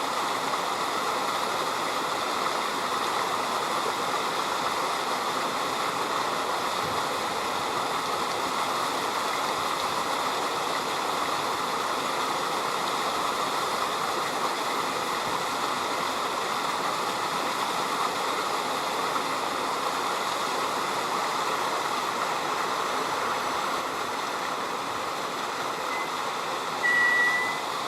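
River water flowing with a steady rushing sound. Near the end comes one short, high, slightly rising note, the loudest thing in the stretch.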